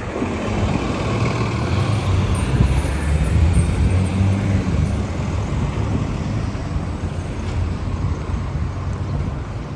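Transit bus engine drone as the bus goes by, loudest about three to four seconds in, then settling into a steadier traffic rumble.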